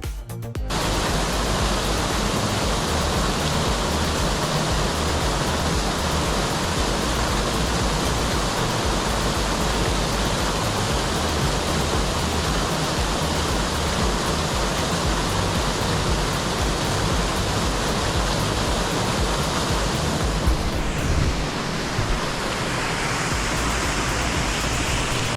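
Steady, loud rushing of flowing water, like a stream or river, with a brief louder moment about twenty seconds in.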